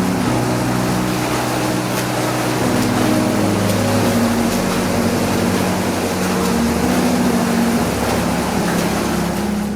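Steady rushing water of a flowing-water swimming pool's current, with a low hum underneath whose pitch shifts in steps.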